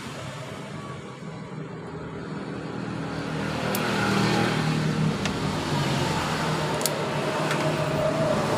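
A motor vehicle's engine running, growing louder about three seconds in and staying up, with a few light clicks over it.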